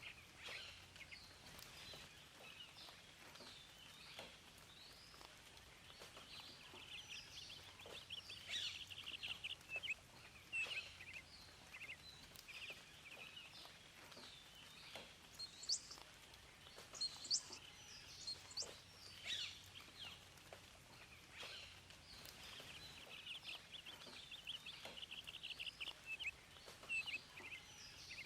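Several songbirds chirping and singing, with quick sweeping calls and buzzy trills overlapping throughout, over a faint steady background.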